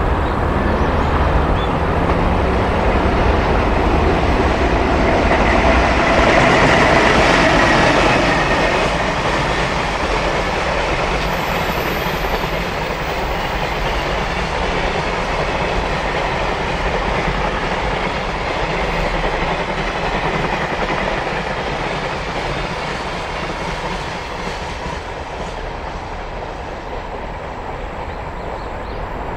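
Container freight train hauled by a JR Freight EH500 electric locomotive running past, its wheels clattering over the rail joints as the long string of container flat wagons rolls by. It is loudest several seconds in, then goes on steadily and eases off slowly toward the end.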